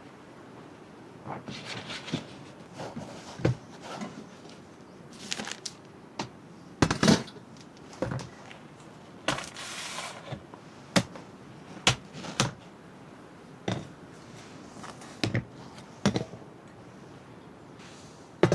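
Objects being handled: scattered knocks, clicks and short rustling swishes, a dozen or so irregular strokes with the loudest knocks about seven and twelve seconds in.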